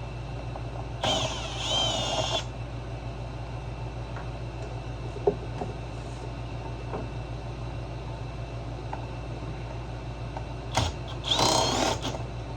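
Cordless drill-driver spinning in two short bursts, about a second in and again near the end, backing screws out of the generator's cover, with a few small clicks of parts being handled in between. A steady low hum runs underneath.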